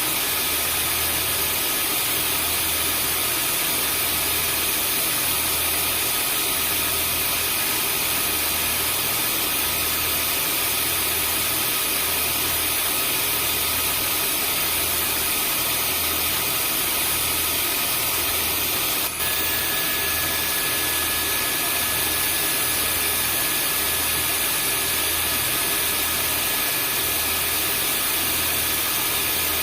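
Household vacuum cleaner running continuously: a steady rushing hiss with a high whine and a slow, regular throb underneath. A faint click comes about two-thirds of the way through, after which the whine's pitch shifts slightly.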